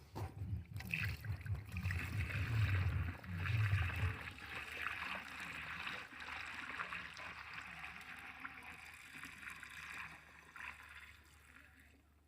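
High-pressure pesticide sprayer hissing steadily as the spray jet runs, with a low chugging from its petrol engine over the first few seconds; the hiss fades out near the end.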